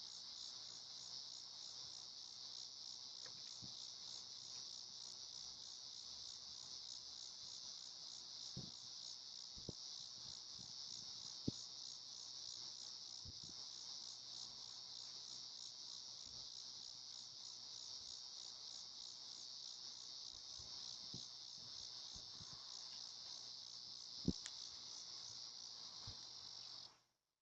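Insects trilling in a steady, continuous high-pitched chorus, with a few faint clicks. The sound cuts off abruptly near the end.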